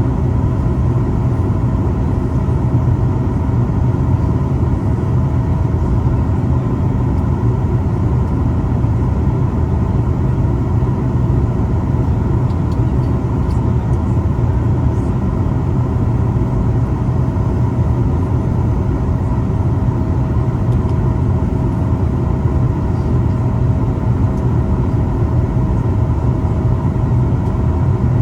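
Steady cabin noise of a Boeing 737 MAX 8 airliner: a constant low rumble with two faint steady hums above it, unchanging throughout.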